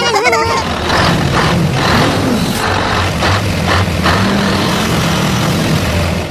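A heavy truck engine runs steadily with a rough hiss over its low hum, surging briefly several times in the first few seconds, then cuts off near the end.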